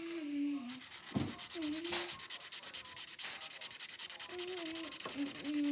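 Felt-tip marker scribbled rapidly back and forth on paper, colouring in. It makes a steady run of quick strokes, about ten a second.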